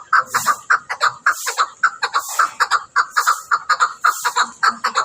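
Chukar partridge (chakor) calling: a rapid, rhythmic run of repeated clucking 'chuck' notes, several a second, swelling in groups about once a second.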